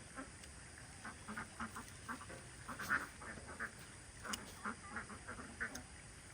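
A flock of farm birds calling, many short calls overlapping in quick succession, with a louder call about three seconds in.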